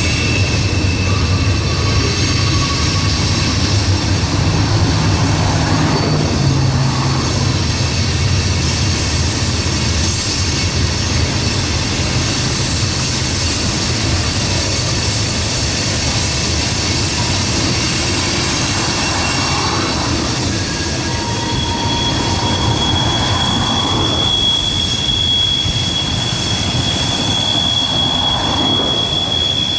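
Train rolling past with a steady rumble of railcars and thin, high-pitched wheel squeal; a new squeal tone sets in about two-thirds of the way through.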